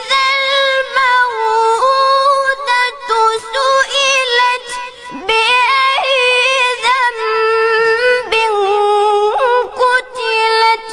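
A high-pitched voice reciting the Quran in the melodic tajweed style, drawing out long held notes with wavering ornaments and taking brief breaths between phrases.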